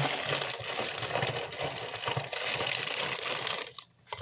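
Plastic packaging crinkling and rustling as it is handled, with a stream of small crackles. It stops about three and a half seconds in.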